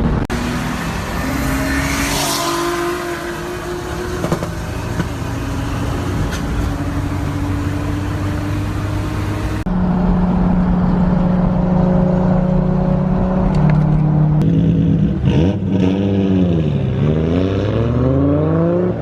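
Car engine and road noise at speed, heard from inside a moving car, holding steady revs. The sound changes abruptly about halfway through. Near the end the engine revs fall and then climb again as the car comes off the throttle and accelerates.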